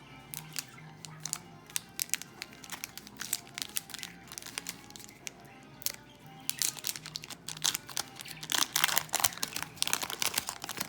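Trading-card pack wrapper crinkling and tearing as a pack is ripped open, a run of sharp crackles that gets denser and louder in the last few seconds.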